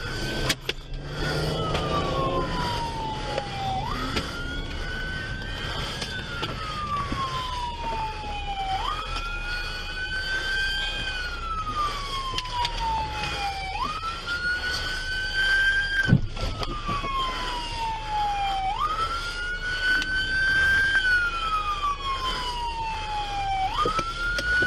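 Police siren on the wail setting: the pitch rises quickly, then glides slowly down, repeating about every five seconds. A brief sharp knock is heard about sixteen seconds in.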